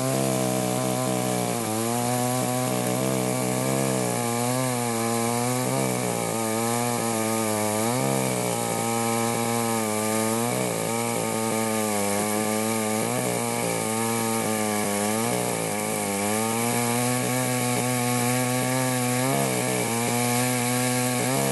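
Cheap Chinese Baus two-stroke chainsaw running at high revs while cutting logs. Its pitch dips again and again as the chain bites into the wood, then rises back.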